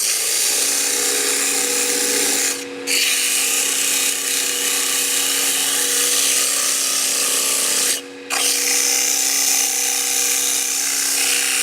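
Wood lathe running with 80-grit sandpaper held against the spinning wooden spindle: a steady sanding hiss over the lathe's hum. The paper comes off the wood briefly twice, about three seconds in and again about eight seconds in.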